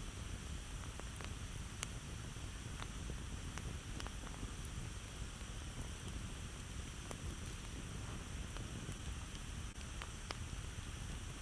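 Campfire crackling: scattered sharp pops and snaps at irregular intervals over a steady low rumbling hiss of the burning fire.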